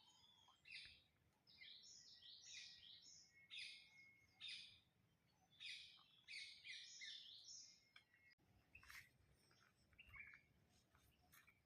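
Birds chirping faintly in quick clusters of short high notes, busiest in the first two-thirds, then thinning to scattered sharp chirps.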